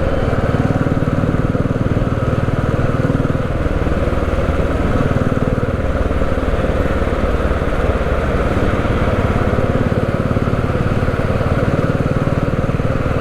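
Motorcycle engine running steadily at idle in traffic, with a fast, even low pulsing.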